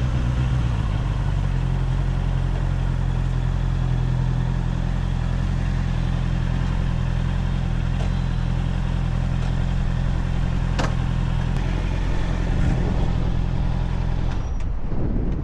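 Honda CBR650R's inline-four engine idling steadily at a constant pitch, with a single sharp click about eleven seconds in. The steady engine note breaks off near the end.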